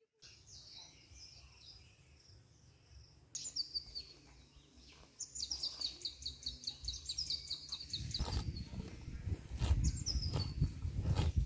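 Birds singing: repeated high chirps that fall in pitch, with a fast run of notes in the middle. Over the last few seconds a louder low rumble with crackling clicks joins them.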